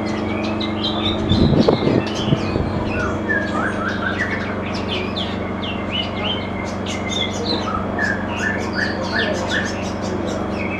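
Caged songbirds chirping in quick runs of short, high notes, with a string of evenly spaced chirps in the second half, over a steady low hum.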